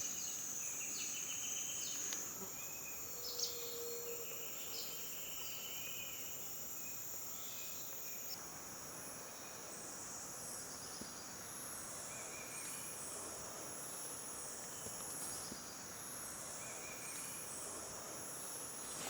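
Tropical rainforest insect chorus: a steady high-pitched drone with repeated trilling calls over it. About eight seconds in the mix changes and a higher, pulsing buzz joins.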